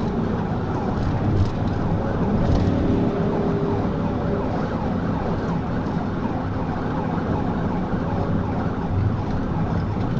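Police car siren cycling in a fast, repeating pitch sweep, heard over the steady engine and road noise of a patrol car in a high-speed pursuit.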